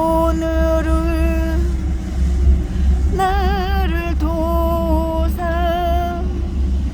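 A woman singing a slow Korean praise song in long, held notes with a wavering vibrato, over the steady low rumble of a boat's engine.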